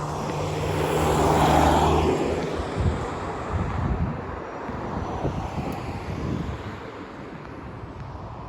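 A motor vehicle passing close by on the road, its engine and tyre noise swelling to a peak about one and a half seconds in and then fading away.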